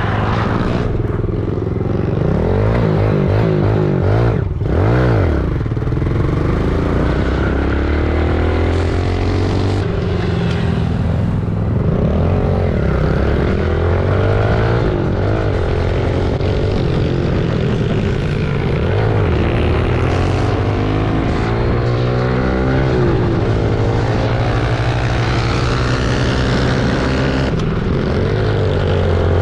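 Pit bike engines running and revving, their pitch rising and falling again and again as the bikes ride off.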